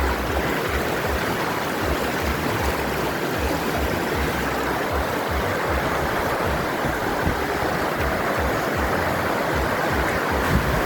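Waterfall on a creek, rushing water making a steady, loud, even hiss, with irregular low thumps on the microphone.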